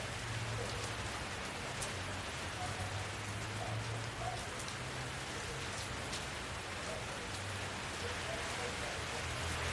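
Steady rain falling, a constant hiss with scattered sharp ticks of single drops, over a low hum.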